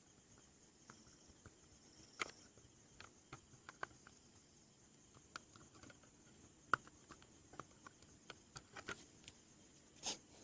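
Faint, scattered light clicks and taps at irregular intervals over a quiet background hiss, with a slightly louder pair of knocks near the end.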